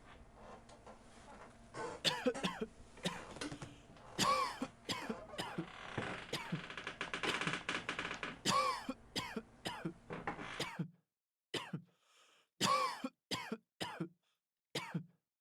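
Simulated test-room distraction noise: a run of short coughs and throat-clearing sounds over a faint background, which drops out about two-thirds of the way through, leaving a few separate coughs with silence between them.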